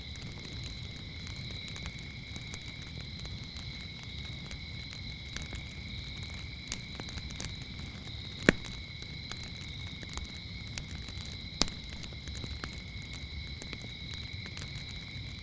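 Wood fire crackling with scattered small clicks and two loud snapping pops, one a little past halfway and one about three-quarters through. Under it runs a steady high chorus of crickets.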